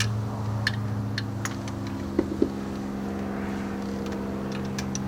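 Steady low mechanical hum from a running motor, with scattered light metallic clicks and taps from hand tools and two sharper knocks a little past the middle.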